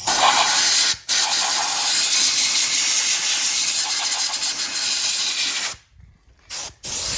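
Compressed air from a blow gun hissing loudly in blasts, blowing gravel and dirt out from behind a Corvette's fender liner: a short blast, a brief break about a second in, a long blast that cuts off near the end, then a quick burst and another blast starting.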